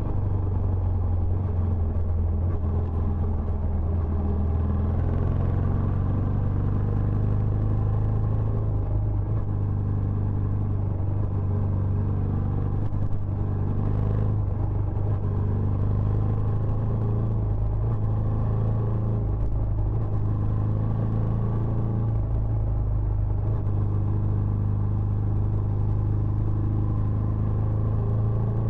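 Benelli Imperiale 400's single-cylinder engine running steadily through its stock exhaust, holding one constant low pitch with no revving.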